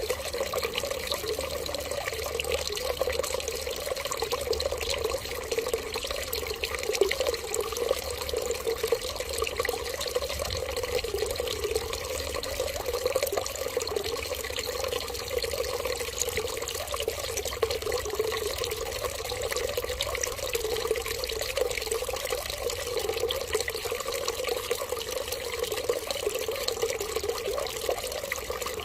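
Water running steadily, a continuous trickle and splash without a break.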